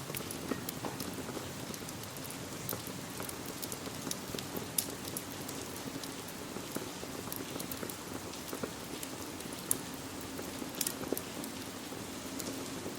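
Steady rain together with a wood fire in a fireplace, its sharp crackles and pops scattered irregularly over the even hiss of the rain.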